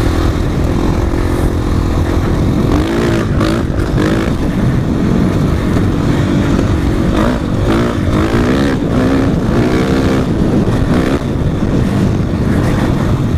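450cc dirt bike engine under way, revving up and down repeatedly as the rider works the throttle, over a steady rushing noise.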